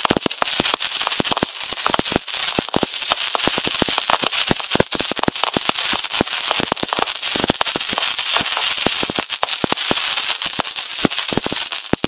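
Fireworks at close range: a dense, irregular string of sharp cracks and bangs over a steady high hiss of burning pyrotechnics, cutting off at the very end.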